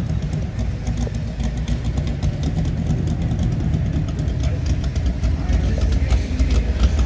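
A car engine idling steadily, with a deep, low-pitched sound.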